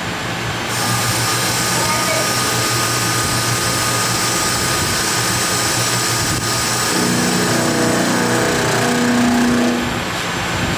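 Factory machinery running steadily, a dense noise with a thin high whine; about seven seconds in a lower droning hum joins for a few seconds, then fades.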